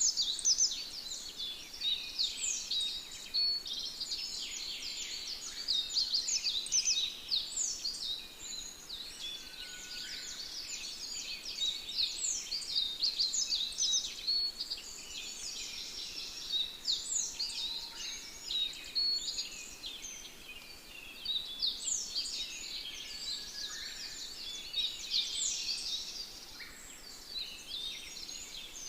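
A dense chorus of many small birds chirping and twittering together: a constant overlap of short, high, quick chirps.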